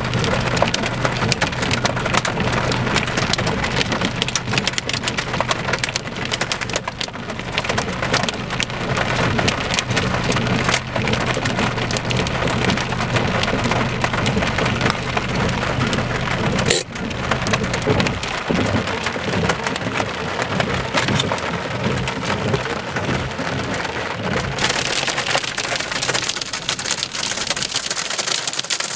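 Hail and heavy rain pelting down, a dense, steady patter of many small hard hits.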